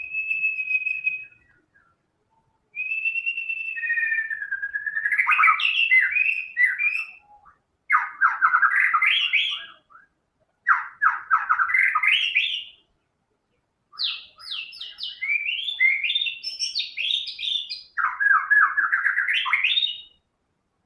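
White-rumped shama singing: a held whistled note, then a string of phrases of quick repeated notes that climb in pitch, separated by short pauses.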